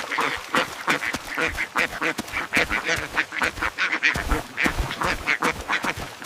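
Ducks quacking in a quick, continuous run of short calls, several a second.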